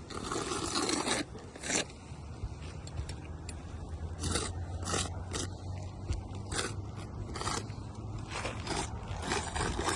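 A series of short, irregular scraping and rustling sounds, the first and longest lasting about a second, over a steady low hum.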